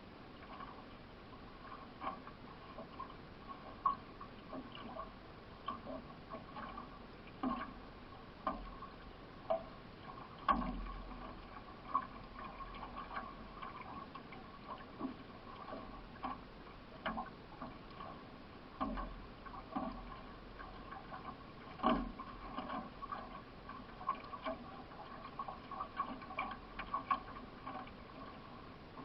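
Solo racing canoe under way with its paddler stroking: sharp knocks and clicks roughly once a second over a steady wash of water.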